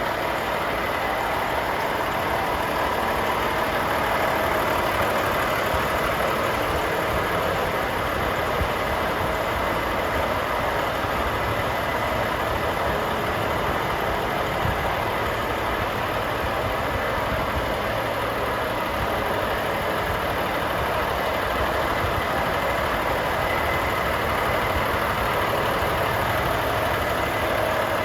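Volvo FH 500 truck's 13-litre straight-six diesel idling steadily.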